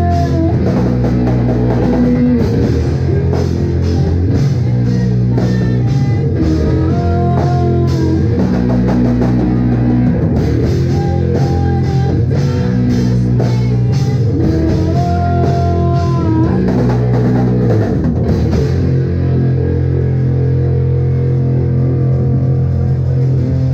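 Live rock band playing loud, with distorted electric guitar, bass and a pounding drum kit with crashing cymbals. About nineteen seconds in the drums stop, and the guitar and bass chord is left ringing on.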